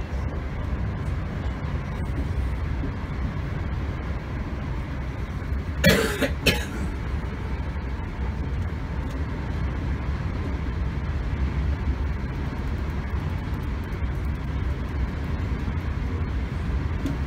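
Steady low rumble of a Class 321 electric multiple unit running between stations, heard from inside the carriage. About six seconds in, a short, loud double burst stands out above the running noise.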